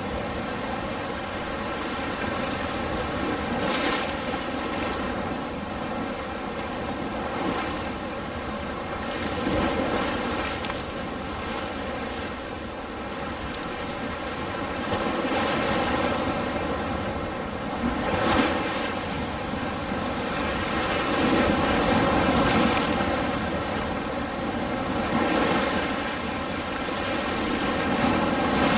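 Ocean surf: a continuous wash of waves that swells and recedes every few seconds as each wave breaks and runs back.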